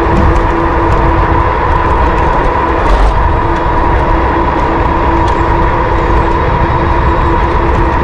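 Riding noise of an electric bike heard on an action camera: loud, steady wind rumble on the microphone with two steady tones running through it, and a few faint ticks.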